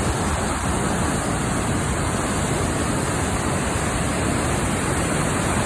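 Steady rushing of fast-flowing floodwater, an even noise with no breaks.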